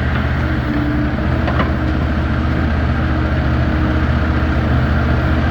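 A heavy engine idling steadily, with an even low pulsing drone, and a faint light clink about a second and a half in.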